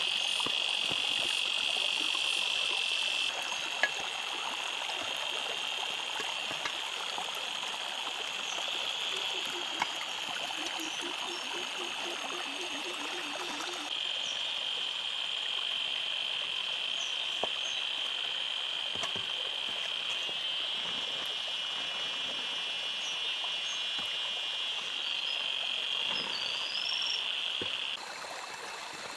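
A steady high-pitched chorus of calling animals. Between about nine and fourteen seconds in, a run of low, rapid pulsed calls joins it. The chorus changes abruptly a few times.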